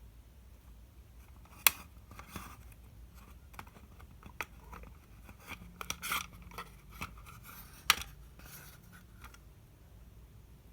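Handling noises: two sharp clicks, about two seconds in and again near eight seconds, with lighter ticks and a stretch of rustling and scraping between them. No drill motor is running.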